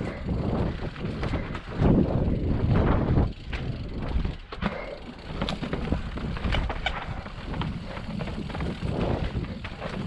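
Wind buffeting the microphone in uneven gusts, with a few scattered clicks and knocks.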